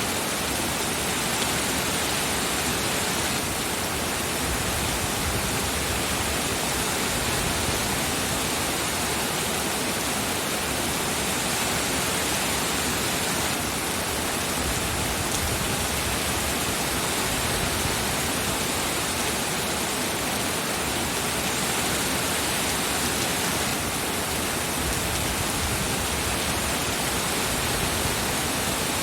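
Steady rain, heard as an even, constant hiss with no distinct drops or thunder.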